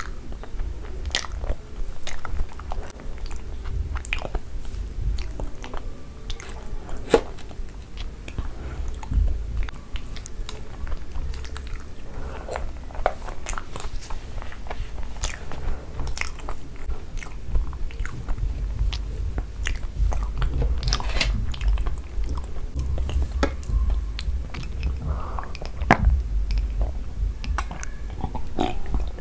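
Close-miked chewing of a mouthful of soft, saucy noodles: irregular wet smacks and clicks of the mouth and lips. Near the end, a drink from a glass.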